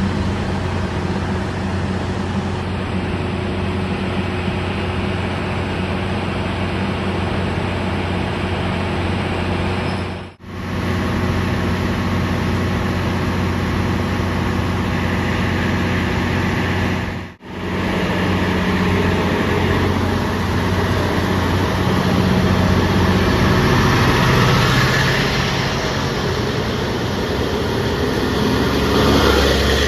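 Diesel train running with a steady engine hum, growing louder with more rumble and hiss toward the end. The sound drops out abruptly twice, about ten and seventeen seconds in.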